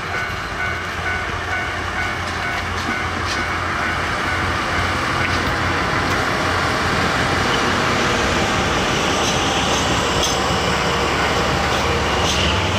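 Diesel train running on the rails, a steady low engine drone under rail and wheel noise, growing steadily louder.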